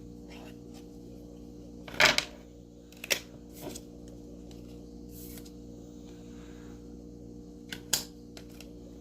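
Oracle cards being handled: a few short taps and clicks, the loudest about two seconds in and two more near the end, over a steady low electrical hum.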